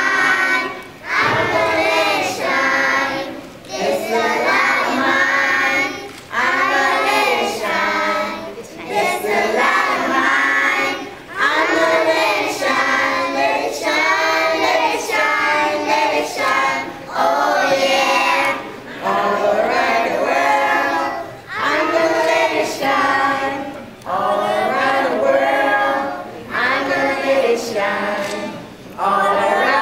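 A group of young children singing a song together, unaccompanied, in phrases broken by short pauses for breath.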